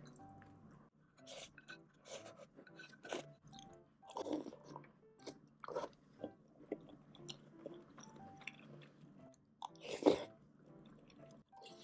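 A person chewing and biting food close to the microphone, with irregular crunchy bites, the loudest about ten seconds in, over soft background music.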